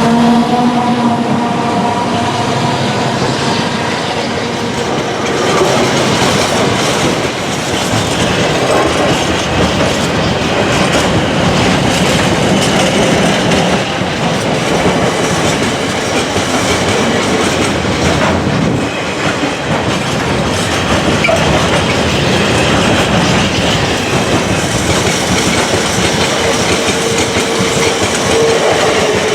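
A train running past close by, its wheels clattering steadily over the rail joints.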